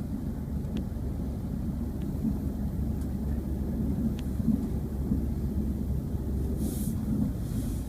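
Class 170 Turbostar diesel multiple unit heard from inside the carriage: its underfloor diesel engine's steady low rumble, with a few faint ticks and a brief hiss near the end.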